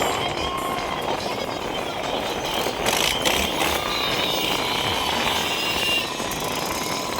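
Many tractor engines running together, a steady mechanical din, with a few brief sharp noises about three seconds in.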